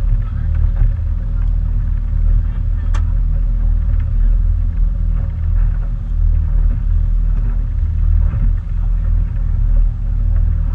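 Motorboat engine running at a steady speed, a deep rumble heard from aboard the boat, with a brief tick about three seconds in.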